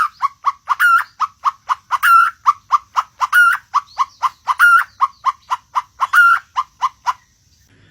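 A bird calling in a steady run of short, quick notes, about three or four a second, with a louder, higher note about every second and a bit; the calling stops abruptly near the end.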